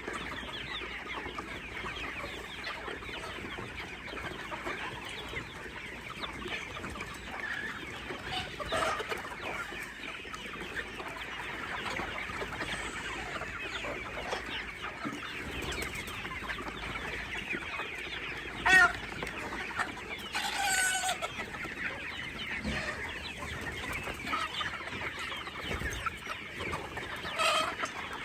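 A flock of baby chicks peeping continuously, many short high chirps overlapping in a dense chorus, with a few louder single calls standing out in the second half.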